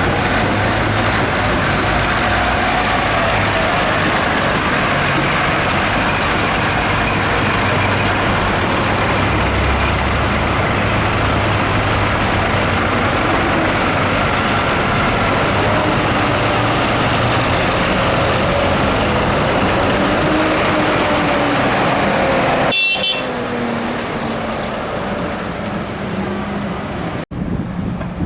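Tractor and car engines running together in a steady stream of vehicle noise. The sound changes abruptly a little over twenty seconds in and drops out for an instant near the end.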